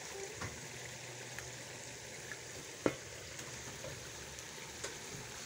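Onion-tomato karahi masala frying and bubbling in a pot, a steady sizzle, with a few light clicks and one sharper knock about three seconds in.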